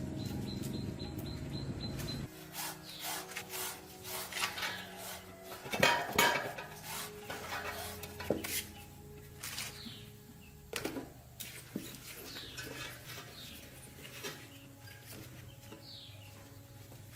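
Background music cuts off about two seconds in, followed by irregular knocks, clinks and rubbing of tools and metal parts being handled in motorcycle repair work.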